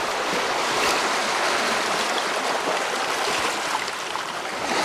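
Steady rushing of sea water, waves washing along the shore, with no distinct breaks or impacts.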